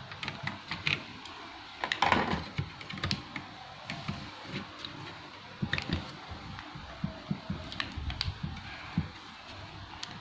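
Irregular clicks and taps of hard plastic being handled and worked, with a louder cluster about two seconds in: the bottom case of an Asus X441B laptop being worked open.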